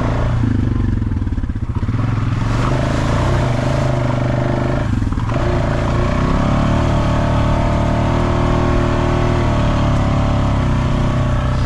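Off-road vehicle engine running on a trail ride. Its note drops soon after the start, dips briefly around five seconds in, and climbs back up around six seconds in as the throttle changes.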